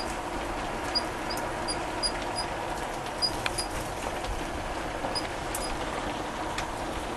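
Small aviary birds giving scattered short, high peeps, about ten in a few seconds, over a steady background hiss.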